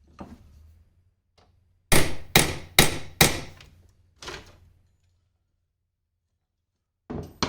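Hammer blows on a punch, peening over a small metal rivet whose head rests on a vise, spreading its end into a mushroom to fix the joint. Four hard metallic strikes come in quick succession about two seconds in, then a lighter one, and another knock near the end.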